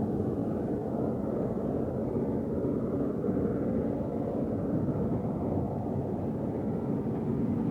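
A motor vehicle driving, its engine and travel noise a steady low rumble.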